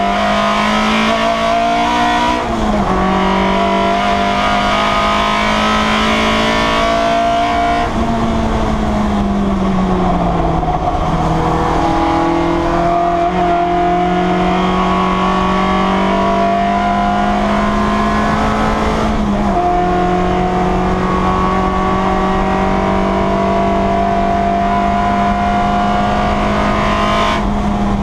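Citroen Saxo race car's four-cylinder engine heard from inside the stripped cockpit, held at high revs under power. The pitch drops sharply at an upshift about two and a half seconds in and again around nineteen seconds. Between about eight and eleven seconds the revs fall away and then build back up.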